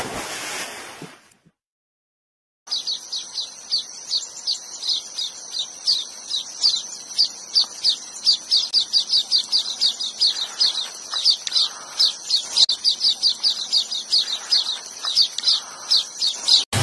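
A bird calling in a rapid, unbroken series of high, downward-sweeping chirps, about four a second, over a steady high tone. The chirps start about three seconds in, after a brief burst of rushing noise that cuts off abruptly.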